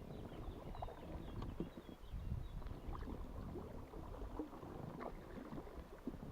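Paddling an inflatable canoe: paddle blades dipping and splashing in river water, with irregular small splashes and drips.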